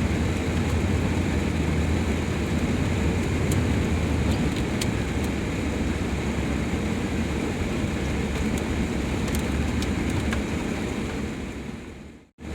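Steady engine drone and tyre noise heard inside a Dodge van's cab while driving on a plowed, sanded and salted snowy road. The sound fades out to silence for a moment near the end, then picks up again.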